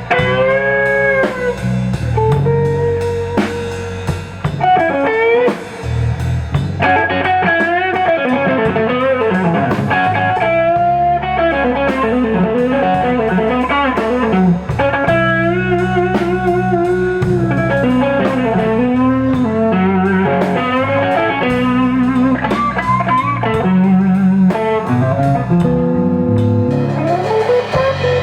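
Slow electric blues played by a band: a lead electric guitar plays bent-note phrases over bass guitar and drums.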